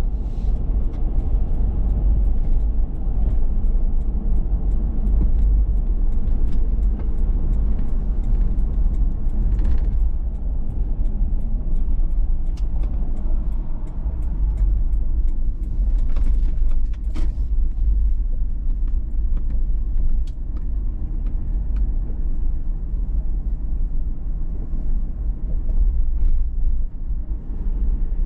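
Steady low rumble of a 2019 Toyota 4Runner TRD Pro on the move: its 4.0-litre V6 and road noise. A few faint ticks and clicks are scattered through it.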